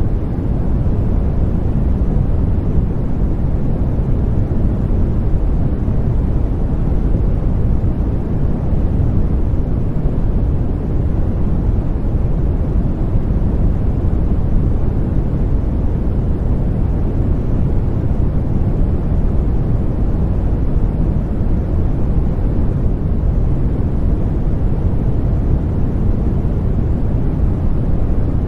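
Steady white noise for baby sleep: an even, deep hiss with most of its weight in the low end, unchanging, with no rhythm or breaks.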